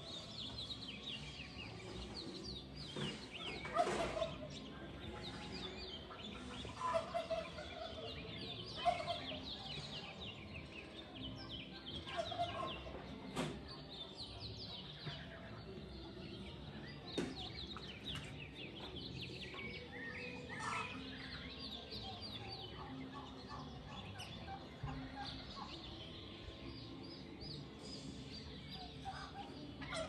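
Birds calling: quick high chirps from small birds throughout, with a louder, lower call repeating every few seconds, mostly in the first half.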